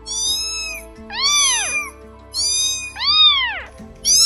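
High-pitched meows from a kitten, about five in a row. Some calls are held level and some rise and fall.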